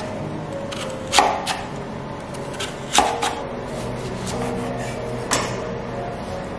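Large kitchen knife cutting through lotus root and a lemon on an end-grain wooden cutting board: a few sharp knocks of the blade striking the board, spaced a second or two apart.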